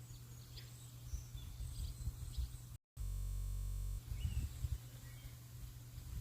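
Small birds chirping faintly now and then over a steady hiss of rain and a low rumble. About three seconds in, the sound cuts out for an instant, then a steady buzzing hum holds for about a second before the birds and rain return.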